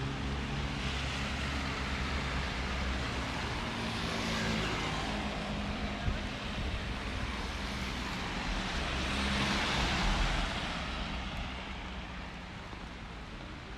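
Street traffic on a wet road: two vehicles pass, their tyre hiss on the wet surface swelling and fading, one peaking about four seconds in and the other about ten seconds in, over a steady low engine hum.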